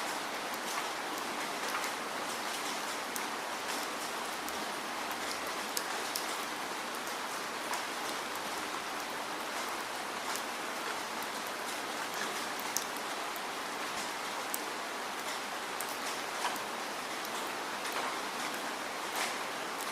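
Steady rainfall, an even hiss with many scattered drop ticks and a few sharper splats.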